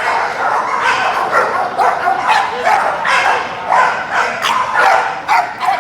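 American pit bull terriers barking over and over in quick succession, about two or three barks a second.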